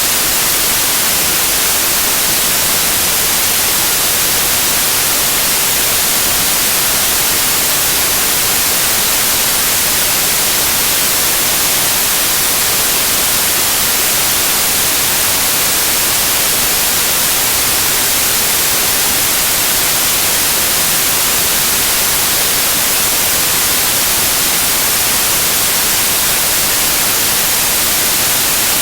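Loud, steady white noise: an even hiss, brightest in the high end, with no change or break.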